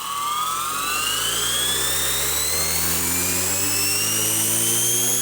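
M03 radio-controlled helicopter's electric motor and rotor spooling up: a whine that rises steadily in pitch, over a lower rotor hum.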